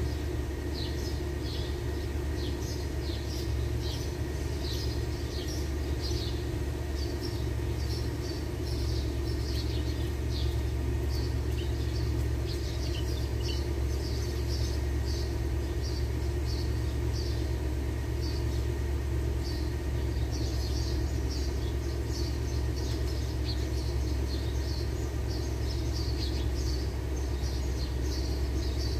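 Small birds chirping in quick, repeated short calls over a steady low rumble.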